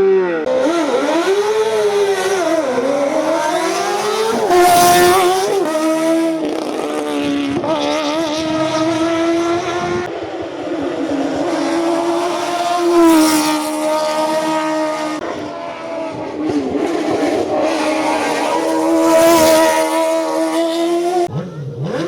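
Racing car engine under hard acceleration on a hillclimb course. The revs rise and drop repeatedly through gear changes and braking, with three brief louder surges about 5, 13 and 19 seconds in.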